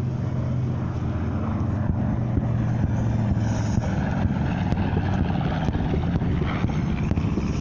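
B-25 Mitchell bomber's twin radial piston engines and propellers running steadily in flight.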